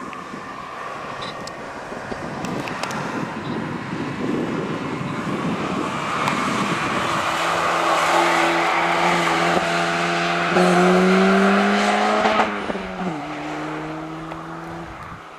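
Ford Fiesta 1.7 VCT four-cylinder engine and exhaust under hard acceleration. A rushing noise builds, then the exhaust note climbs in pitch and grows loud. About two-thirds of the way in, the note drops sharply and the sound fades.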